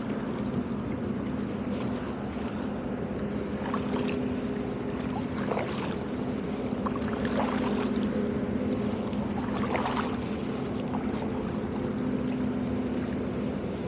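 Tugboat diesel engine running with a steady low hum as the tug pulls out, with scattered small splashes and drips from canoe paddling.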